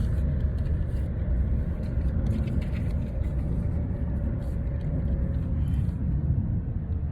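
A vehicle engine running steadily: a low rumble with a faint steady hum.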